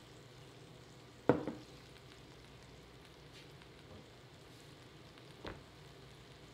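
Squash and zucchini pieces sizzling faintly and steadily in hot oil in a Dutch oven. A sharp knock about a second in, and a fainter one near the end.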